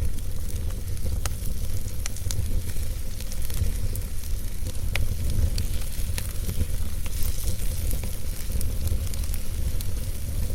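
Wood fire burning in a fireplace: a steady low rumble and hiss of the flames, with irregular sharp crackles and pops from the logs.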